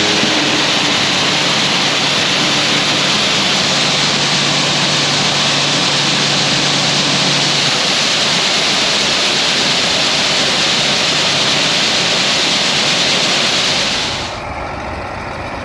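Vehicle engine running under a loud, steady rushing hiss. A low engine hum fades out about halfway through, and the hiss drops off sharply about fourteen seconds in.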